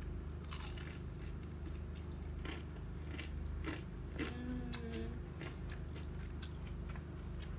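A person biting and chewing a crispy fried vegetable fritter (bakwan), with scattered short crunches.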